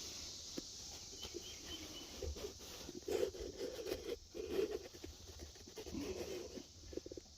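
Faint scraping, rustling and scuffing of a phone on a selfie stick rubbing against the dirt walls inside a burrow, with irregular small knocks and a few louder rubbing passages past the middle.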